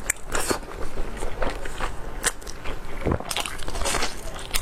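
Close-miked mukbang eating: chewing and biting food with irregular mouth smacks and clicks, a few a second, and one heavier knock about three seconds in.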